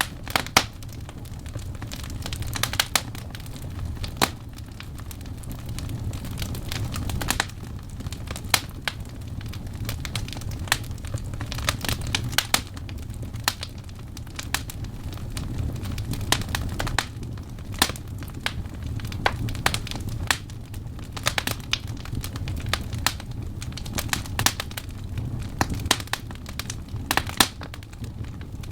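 Burning wood logs crackling and popping: irregular sharp snaps, some in quick clusters, over a steady low rumble of the flames.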